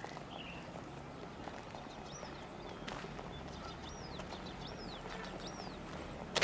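A small bird calling: a string of short, arched high notes, about five in a row in the middle seconds. Occasional soft footstep clicks on the tarmac sound over steady outdoor background noise.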